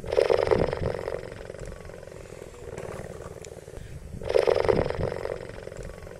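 A big cat, given as a cheetah, giving two loud rasping calls about four seconds apart, each lasting about a second, with quieter rasping breaths between them.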